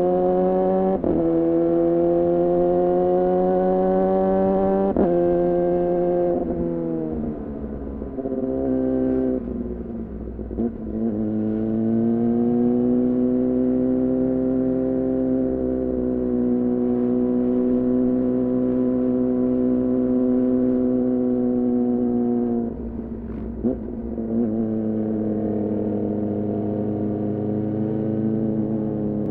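2014 Yamaha R6's inline-four through an R9 titanium muffler and Leovince header, ridden under way. Engine speed climbs gently with two short sharp breaks, then falls away for a few seconds. It then climbs slowly and holds steady for a long stretch, with one more short dip late on.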